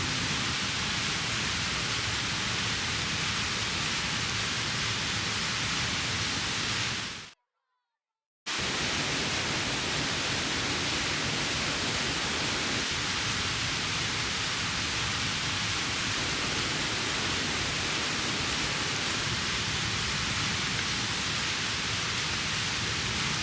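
Mountain stream rushing as a steady, even wash of water noise. It cuts out completely for about a second, around seven seconds in, then resumes unchanged.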